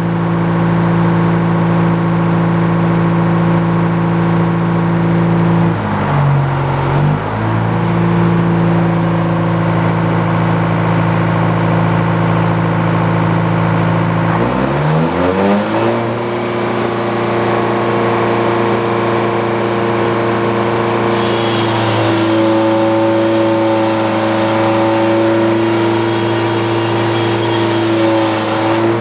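Engine powering an old Frick sawmill, running steadily. It pulls down in speed briefly about six seconds in, then speeds up about fifteen seconds in and runs on at a higher pitch, with a higher whine joining in near the end.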